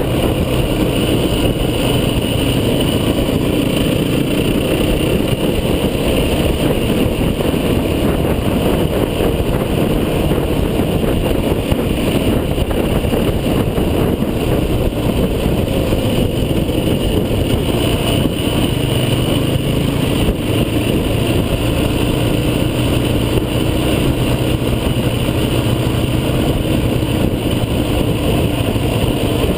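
Off-road vehicle engine running steadily under way, with continuous rumble and engine pitch shifting slightly partway through.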